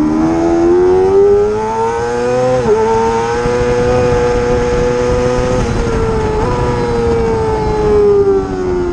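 Racing motorcycle engine running hard at high revs. The pitch climbs, dips briefly about two and a half seconds in, holds high, dips again around six seconds in, then falls steadily toward the end.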